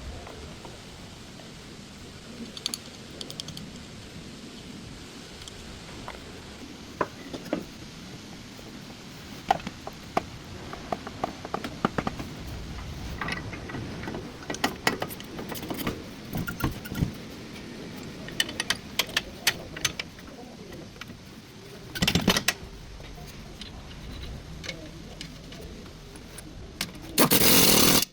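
Irregular metallic clinks and clicks of tools and metal parts being handled, with a louder rush of noise about two-thirds of the way through and another near the end.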